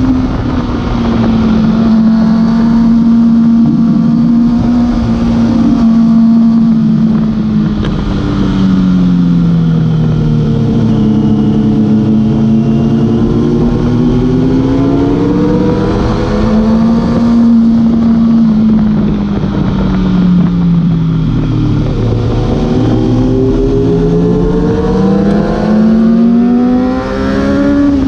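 Kawasaki ZX-6R inline-four sportbike engine heard from on the bike, revving up and down through a run of bends. Its pitch falls twice as the throttle is rolled off into corners and climbs again under acceleration, with steady wind and road rush underneath.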